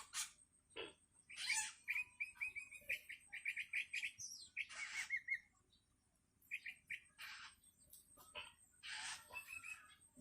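Young long-tailed shrike (cendet) begging: several harsh, raspy calls mixed with quick runs of short repeated chirps. These are the calls of a hungry fledgling calling for its parent.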